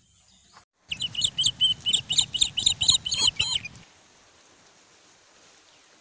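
A bird calling a rapid run of about a dozen short, high chirps, roughly four a second, starting about a second in and stopping near the four-second mark. A low rumble runs beneath the calls.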